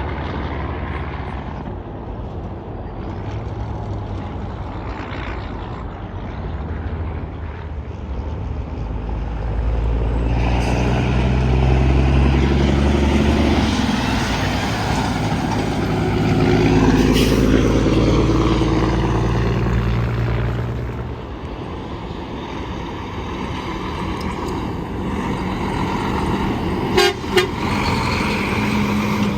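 Heavy highway traffic: semi-truck engines and tyres passing in succession, growing loud through the middle and easing off after. A short horn blast sounds near the end.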